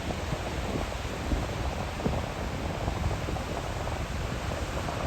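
Steady rush of ocean surf breaking on a beach, with wind gusting on the microphone.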